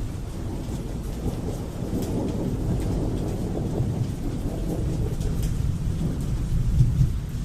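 Thunder rumbling low and continuously over steady rain, with the patter of scattered drops. The rumble swells louder shortly before the end.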